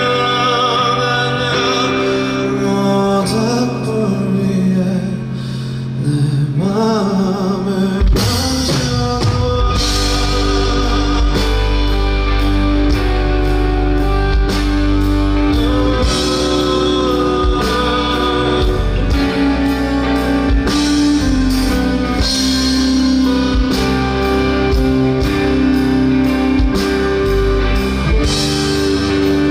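Live pop-rock band music. For the first eight seconds or so a wavering sung melody without recognised words floats over soft sustained backing. Then drums, bass and guitar come in all at once and carry on as a full, steady instrumental section.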